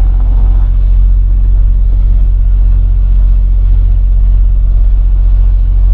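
Semi truck's diesel engine running, heard inside the cab as a steady low drone.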